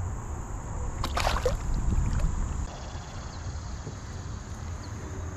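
Water splashing around a small boat, loudest from about a second in, over a low rumble, with a steady high cricket trill behind.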